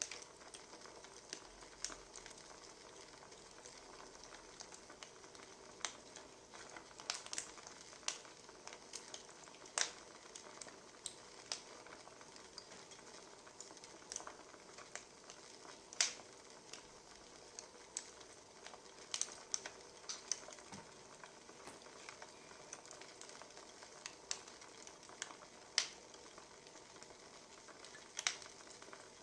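Wood fire crackling: a steady soft hiss with irregular sharp pops and snaps every second or two.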